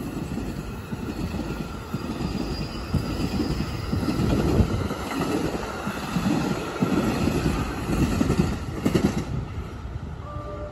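NJ Transit passenger train passing close by, its wheels rumbling over the rails in uneven pulses, with a faint high wheel whine.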